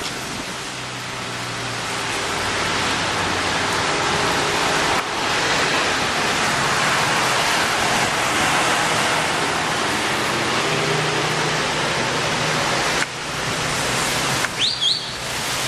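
Heavy rain falling in a dense, steady hiss, with a faint hum of traffic underneath. The sound briefly drops and picks up again twice, and a short high squeak comes near the end.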